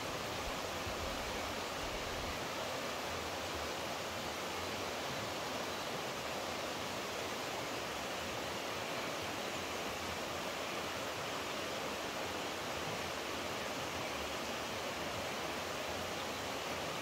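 Steady rushing of flowing water, like a stream or small waterfall, unchanging throughout.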